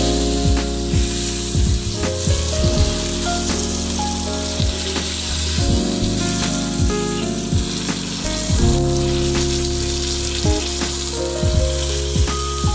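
Yellowfin tuna steak sizzling steadily as it fries in butter in a pan, with scattered small pops and clicks. Background music plays underneath.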